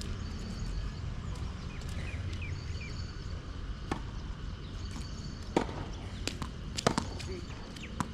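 Tennis ball knocks, being struck by rackets and bouncing on the court: several sharp single hits spread out, the loudest a quick pair near 7 s, over a steady low rumble.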